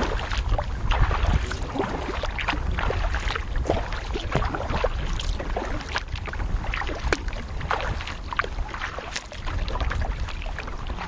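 Kayak paddle strokes splashing in river water, with irregular drips and trickles off the blades, over a steady low rumble.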